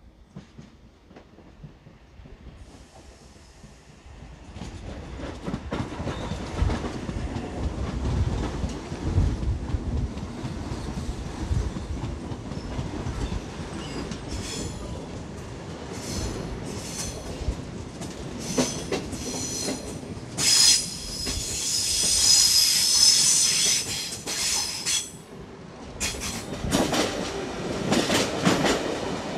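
Double-deck electric suburban trains running past close by: a deep rumble builds, then wheels click over rail joints in a steady rhythm, and a loud, high wheel squeal rings out past the middle as the train rounds the curved track.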